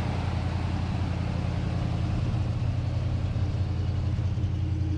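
Engine of a Soviet ZIL military truck idling at an even, steady speed, a low rumble with no change in pitch.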